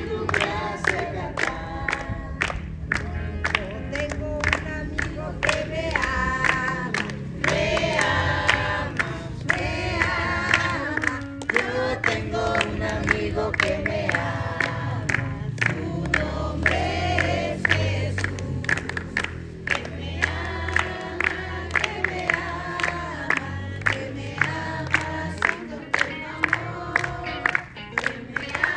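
A group of voices singing a worship chorus together, with hands clapping along to a steady beat.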